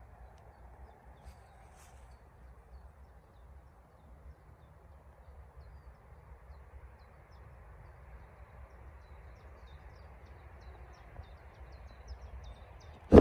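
Faint evening outdoor ambience with a low steady rumble and hiss, and faint short bird chirps in the last few seconds. A sudden loud thump comes right at the end.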